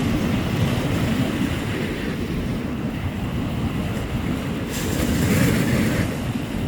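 Wind rumbling on the microphone with the wash of surf behind it, a little louder about five seconds in.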